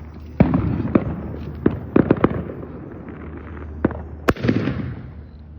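Consumer fireworks going off in an irregular run of sharp bangs and crackles, about ten in all, the loudest a little after four seconds in. A steady low hum runs underneath.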